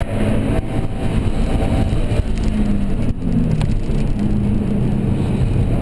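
Car engine running hard on a race track, its pitch rising and falling with the throttle and dipping briefly twice, over steady road noise.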